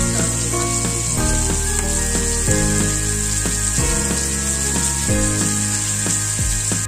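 Chicken pieces and onion sizzling as they sauté in oil in a wok, a steady hiss, with background music playing over it.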